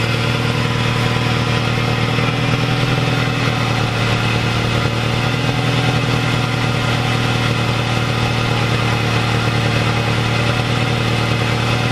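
Scion tC's inline-four engine idling steadily just after starting on fresh oil following an oil change.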